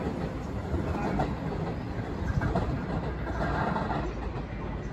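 Six-car JR West 225 series 6000-subseries electric train running away along the track after passing through the station, its rumble moving off into the distance.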